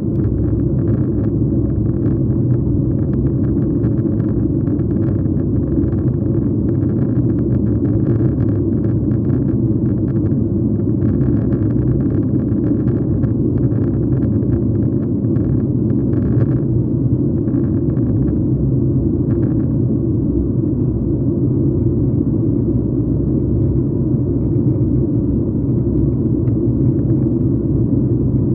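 Steady low rumble of an airliner's engines and airflow heard inside the passenger cabin, with faint irregular rattles that thin out after about twenty seconds.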